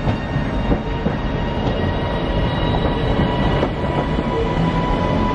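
A Northern passenger multiple unit running slowly along a station platform: a steady low rumble of wheels and running gear with a thin steady whine above it and a few faint clicks.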